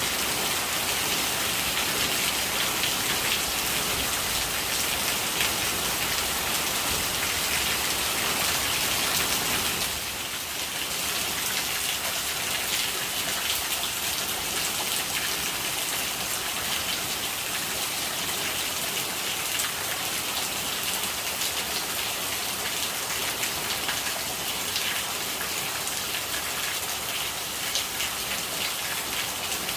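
Steady rain falling, with dense pattering of drops and running rainwater. About ten seconds in it turns slightly quieter and thinner, losing some of its low rumble.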